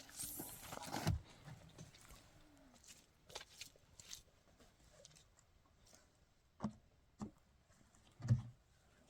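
A few scattered dull thumps and knocks, the loudest about a second in and near the end, with a brief faint call about two and a half seconds in.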